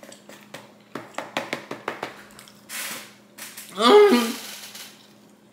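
Close-up chewing of a bite of pepperoni pizza: a quick run of wet, crunchy clicks, then a short breath and a brief wordless voiced sound about four seconds in.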